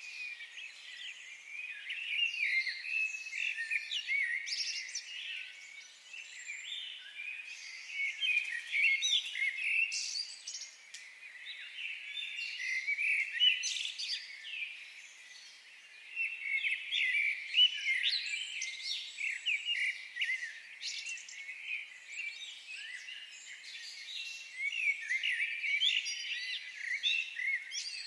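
Several birds singing and chirping at once, a dense chorus of short high chirps and quick trills, with a brief lull about two-thirds of the way through before it picks up again.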